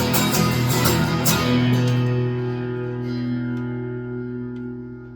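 Guitar strumming a few last strokes, then a final chord left to ring and slowly fade out as the song ends.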